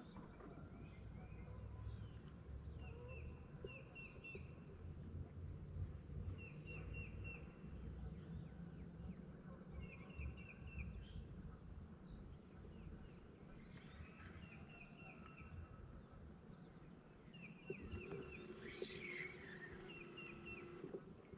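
A bird repeating a short phrase of three to five quick high chirps every few seconds, with a louder, higher call near the end, over a low, steady rumble of wind and water noise.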